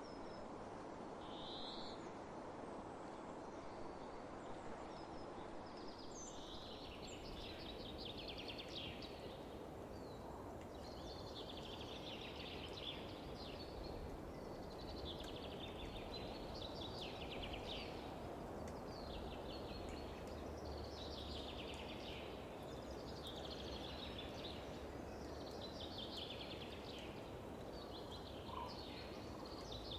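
A songbird sings the same trilled phrase over and over, one roughly every two and a half seconds, starting a few seconds in. Underneath is a steady hush of wind over open fields.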